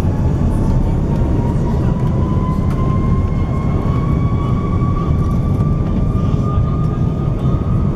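Airbus A330's jet engines heard inside the cabin, a heavy rumble under a whine that rises slowly and steadily in pitch as the engines spool up.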